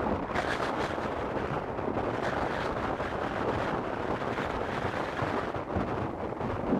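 Strong blizzard wind blowing steadily and buffeting the microphone with a low rumble.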